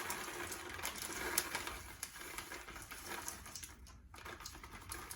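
Chocolate chips pouring into a glass bowl, a dense patter of many small clicks that thins out and fades over the last couple of seconds.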